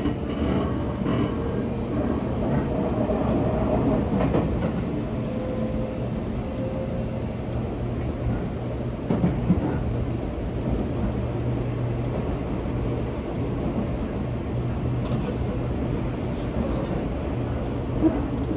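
Interior running sound of a Seibu 40000-series electric train pulling away from a station: a steady low hum of motors and wheels on rail, with a few sharp clacks over rail joints about halfway through and again near the end.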